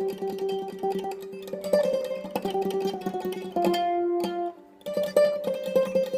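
Mandolin playing a slow melody in rapid tremolo picking, each held note sustained by quick repeated strokes over a low steady note. There is a brief pause about four and a half seconds in before the tune carries on.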